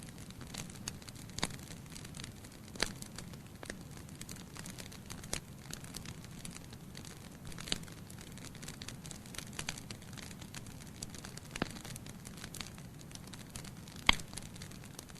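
Wood logs burning in a fireplace, crackling with irregular sharp pops over a low, steady hiss of the flames; one louder pop near the end.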